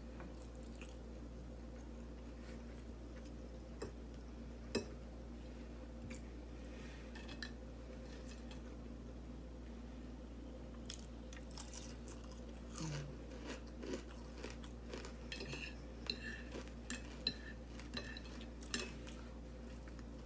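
Close-up eating sounds: chewing with wet mouth clicks and smacks, and now and then a light clink of a fork on a plate. The clicks come most often in the second half. A faint steady hum sits underneath.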